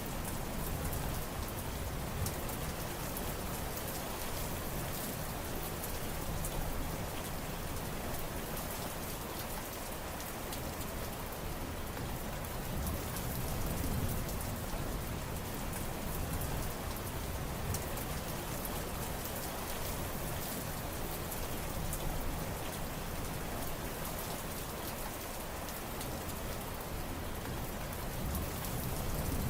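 Steady rain falling and pattering on surfaces, with dense drop ticks and a low rumble underneath that swells and eases slowly.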